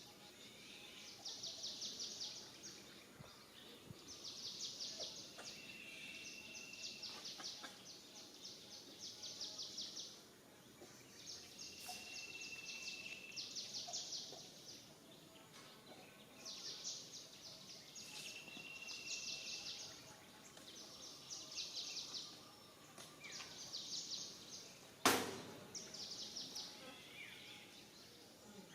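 Outdoor wildlife ambience: high, buzzing trills repeat about every two seconds, with a short steady high whistle every few seconds. A single sharp click comes near the end.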